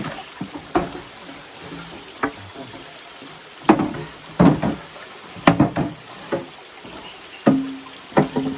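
Steady rain hiss, with irregular clusters of sharp knocks and clatter.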